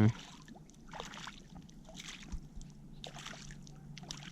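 Water lapping and sloshing against a kayak hull, with soft swishes about once a second and a few small knocks.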